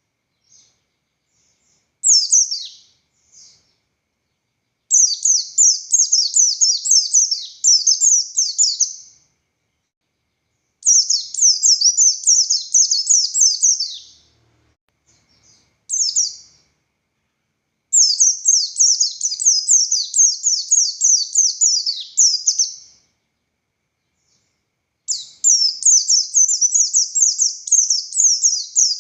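A 'buxtoni' white-eye (pleci) singing loud, fast phrases of high, rapid notes. The phrases last about one to four seconds each, with short pauses between them.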